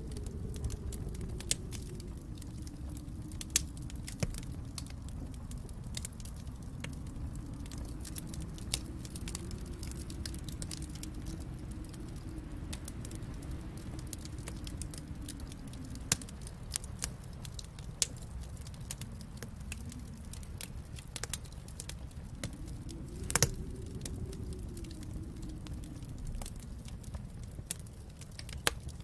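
Wood fire in a fireplace crackling, with scattered sharp pops and snaps over a low steady rumble, and one louder pop late on.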